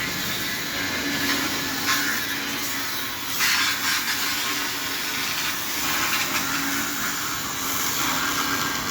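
Tractor running: a steady hissing machine noise with a faint low hum underneath, briefly louder a few times.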